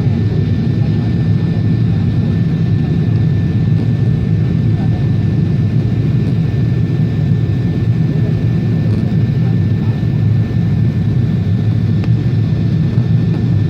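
Steady cabin noise of a Boeing 777 airliner: a loud, even low rush of engines and airflow with a faint thin whine held on one pitch.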